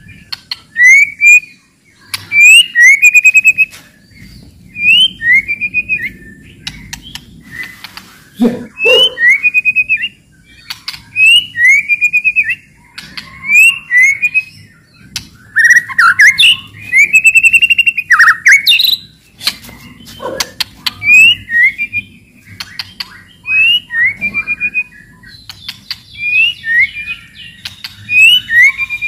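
White-rumped shama singing loudly: short phrases of quick rising whistled notes repeated every second or two, broken up by rapid dry clicking rattles, the 'cetrekan' used as a master song to provoke other shamas into singing.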